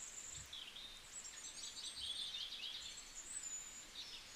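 Birds chirping faintly: a scattering of short, high chirps and little glides.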